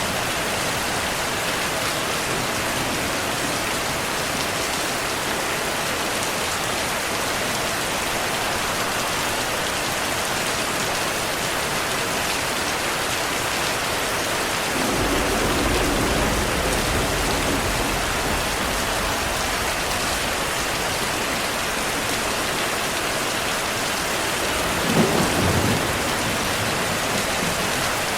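Steady heavy rainfall with two rolls of thunder: a low rumble about halfway through, and a sharper, louder clap near the end.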